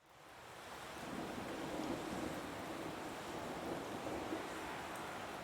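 Steady rushing noise of outdoor nature ambience, fading in over the first second and then holding level.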